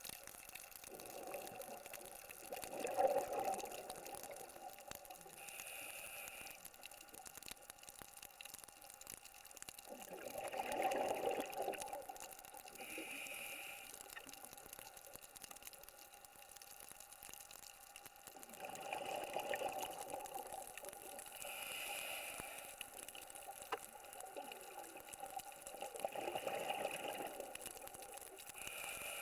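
A scuba diver breathing through a regulator underwater. Exhaled bubbles rush out in bursts about every seven or eight seconds, with short hissing inhalations between them.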